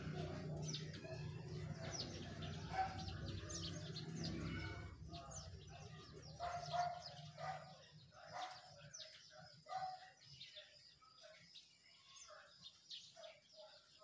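Small birds chirping in the trees: many quick, high chirps overlapping, with short lower calls repeating in the second half. A low steady hum under them fades out about five seconds in.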